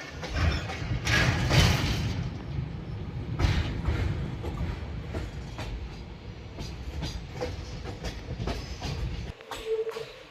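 Train running on the track: a steady low rumble with wheels clattering over rail joints, loudest in the first couple of seconds. The low rumble cuts off suddenly shortly before the end.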